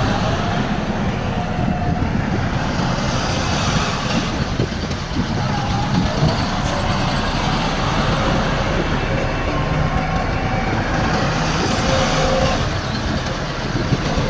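Heavy earthmoving machinery, a bulldozer and dump trucks, running steadily with a continuous diesel rumble.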